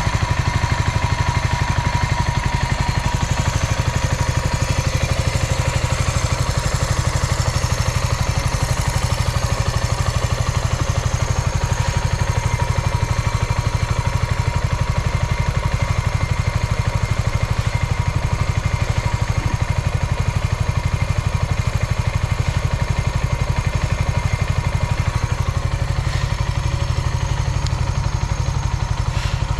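Suzuki Volty's 250 cc air-cooled single-cylinder four-stroke engine idling steadily with an even, fast beat. It runs without abnormal noise.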